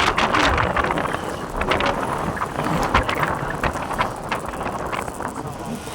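Wind buffeting the microphone of a moving motorcycle, over road and engine noise, with many short sharp knocks and rattles.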